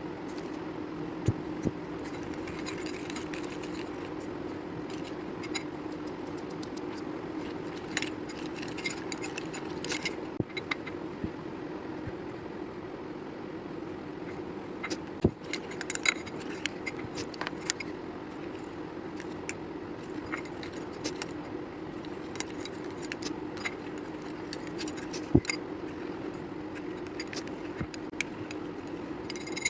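Scattered light clicks and clinks of containers and utensils being handled while making slime, over a steady low hum.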